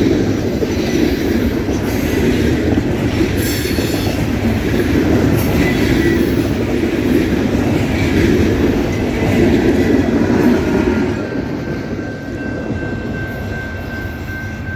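Loaded coal hoppers of a long freight train rolling past: wheels rumbling and clacking over the rail joints, with a short wheel squeal about four seconds in. The rumble drops off about eleven seconds in as the end of the train goes by.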